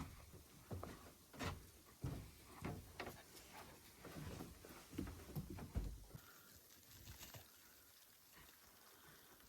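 Footsteps in fresh snow, soft thuds about every half second that stop about six seconds in, leaving only a faint hiss.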